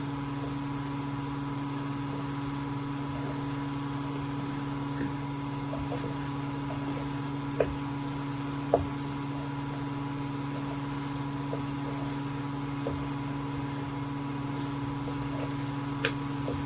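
A steady machine hum, with a few light knocks: two about halfway through and one near the end.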